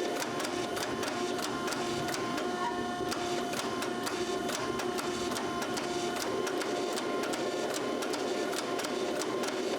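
A machine running steadily, with a quick, regular ticking over a constant hum.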